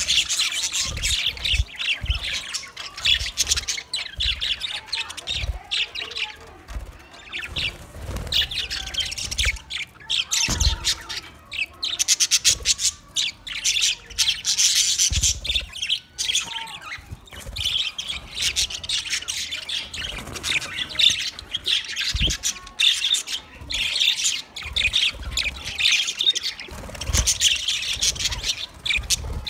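A flock of budgerigars chirping and chattering all together, with many overlapping squawks and warbles and no break. A few short low bumps sound underneath.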